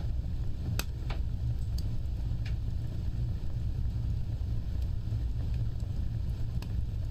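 Wood fire burning with a steady low rumble of flames, broken by a few sharp crackles and pops, two of them close together about a second in.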